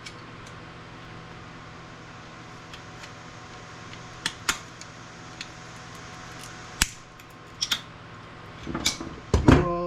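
Sharp clicks and light clatter of circuit boards and small parts being handled, a handful of them spread out, the loudest near the end, over a steady background hum.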